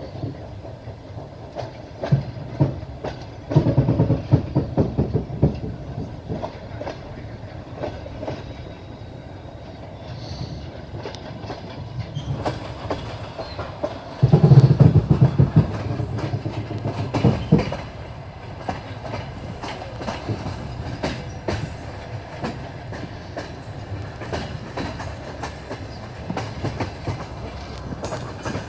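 Train running along the track, its wheels clacking over the rail joints above a steady rumble, with louder stretches of clatter about four seconds in and again around the middle.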